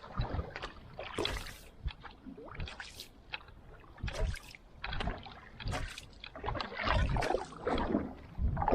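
Outrigger canoe paddle strokes splashing through the water in an uneven rhythm, with wind rumbling on the microphone.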